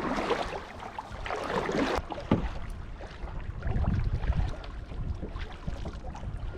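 Kayak paddle strokes splashing and dripping in the water, with a single knock about two seconds in. Wind rumbles on the microphone from about halfway through.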